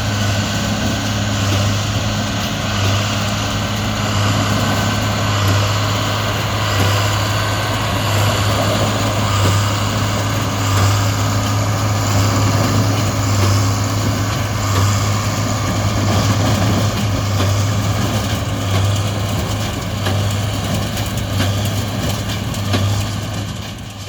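Large diesel engine running steadily under load, with an unbroken low hum.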